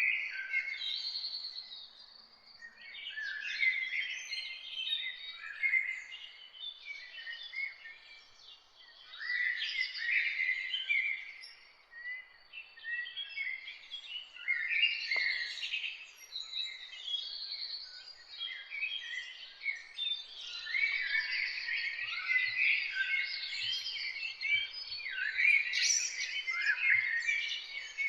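Several songbirds singing and chirping together, a dense chorus of short chirps and trills that swells and fades in waves and is fullest near the end.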